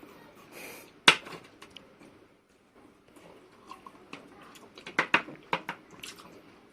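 Eating at a table: sharp clicks and knocks of utensils and dishes, with one loud click about a second in and a quick run of clicks around five seconds in.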